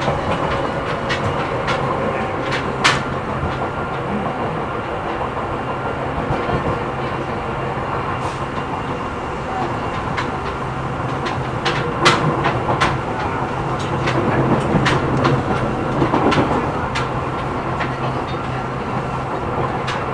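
Seibu New 2000 series electric train running at speed, heard inside the passenger car: a steady rumble of wheels on rail with a low hum, and scattered clicks and clacks over the rail, with sharper knocks about three seconds in and about twelve seconds in.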